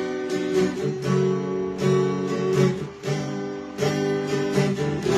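Acoustic guitar strumming chords in a steady rhythm, accompanying a song between its sung lines.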